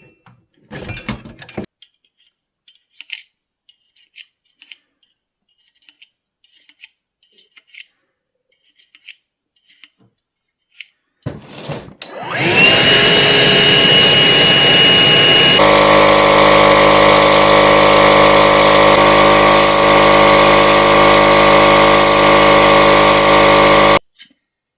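Light clicks and clinks of parts being handled, then a vacuum cleaner switches on about twelve seconds in, its motor whining up to speed. It runs loud and steady, changes to a fuller, rougher sound a few seconds later, and cuts off suddenly near the end.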